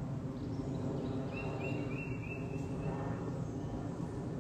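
A bird calling: a quick run of short, high chirps starting about a second in, over a steady low rumble of outdoor background noise.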